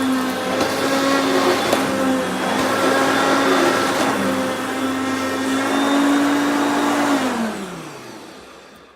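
Hoover Concept vacuum cleaner running steadily while cleaning a rug. About seven seconds in it is switched off, and its motor winds down with a falling whine that fades out.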